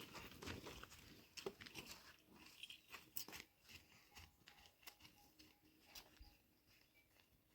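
Near silence with faint scattered clicks and crackles, thinning out after the first few seconds.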